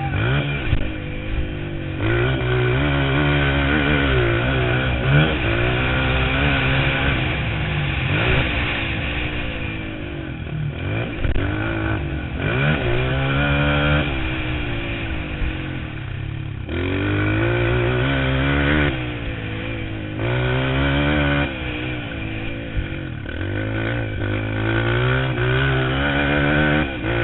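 Motocross motorcycle engine being ridden hard, its pitch climbing under throttle and dropping back every two to three seconds as the rider shifts or rolls off.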